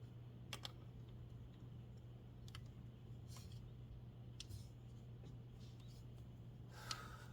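Faint, scattered light clicks and taps, about half a dozen, over a steady low hum; the loudest click comes near the end and rings briefly.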